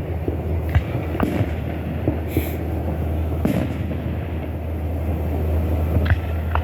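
Scattered firework bangs, about five spread over a few seconds, over a steady low rumble.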